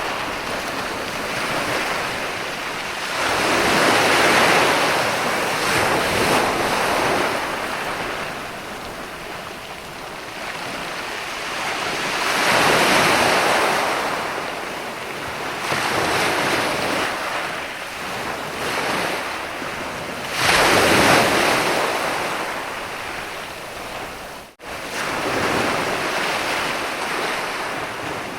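Ocean waves breaking and washing up a sandy beach, the surf swelling and fading every few seconds, with the biggest surge about two-thirds through. The sound cuts out for an instant near the end.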